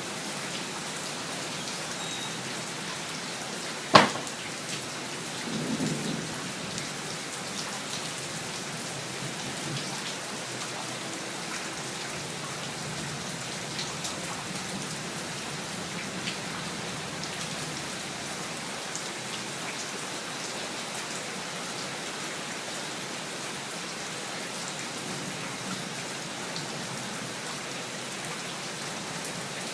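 Steady rain falling, with one sharp crack of close thunder about four seconds in, followed by a brief low rumble.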